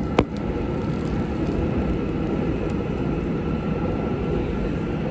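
Steady rumbling noise of a running vehicle with a faint high whine, and one sharp click about a quarter second in.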